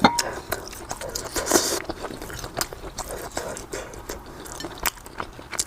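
Close-miked chewing and biting of pork sausage, with many short wet mouth clicks and smacks.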